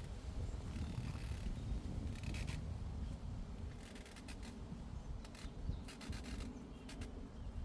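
Llamas grazing, tearing and chewing grass close by: a run of short, irregular crisp rips and crunches, over a steady low rumble of breeze on the microphone.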